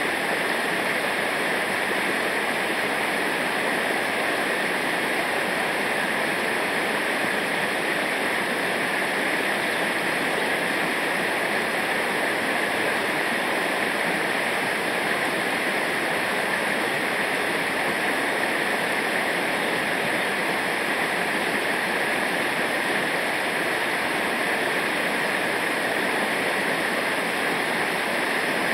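Steady, unbroken rush of fast-flowing river water over rapids.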